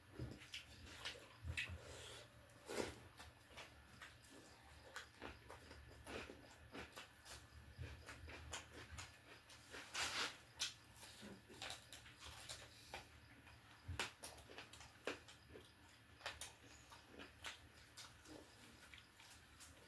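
Faint, irregular mouth sounds of a person eating close to the microphone: chewing, smacking and small clicks, with a few louder bites or slurps.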